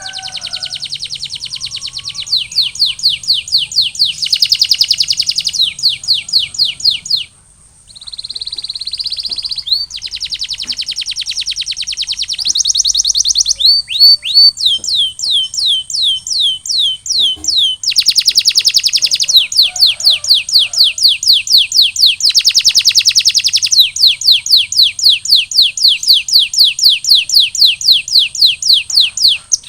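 Domestic canary singing long rolls: fast trills of rapidly repeated high notes in runs of a few seconds, changing from one tour to the next, with a brief break about seven seconds in. A steady high-pitched tone sits underneath.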